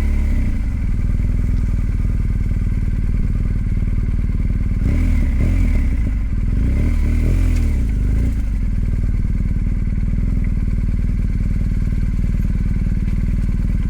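BMW R1250GS Adventure's boxer-twin engine running steadily, its pitch rising and falling a few times around the middle.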